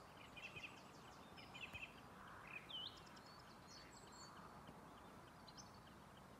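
Faint small birds chirping and calling now and then over a quiet, still background hush.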